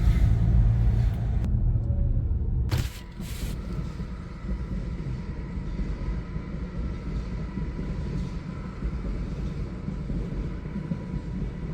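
Low, steady road and engine rumble of a car driving. It drops noticeably about three seconds in, just as two short clicks sound.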